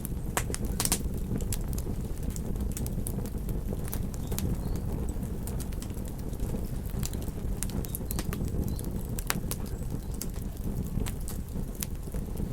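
Campfire crackling, with frequent sharp, irregular pops and snaps over a steady low rumble of beach surf.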